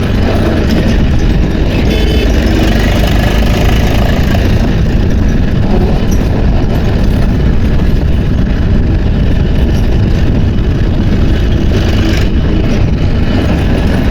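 Tractor engine running steadily and loudly.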